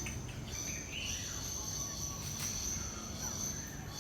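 Steady high-pitched insect drone, like crickets or cicadas, with a few short bird calls over low background rumble.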